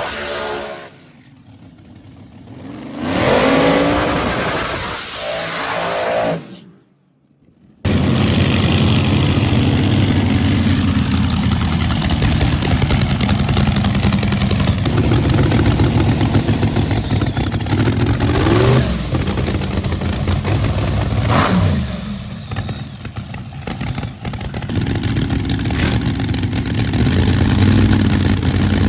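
Drag race car engine running loud and steady, with two short rises in revs past the middle; before a brief cut a few seconds in, engine sound climbs in pitch.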